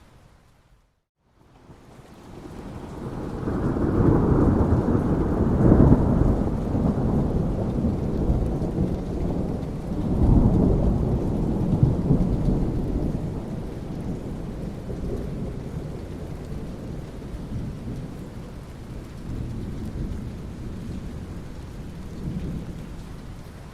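Thunderstorm: steady rain with long rolling thunder. After the sound drops out for about a second near the start, a low rumble swells in, peaks twice and slowly dies away under the rain.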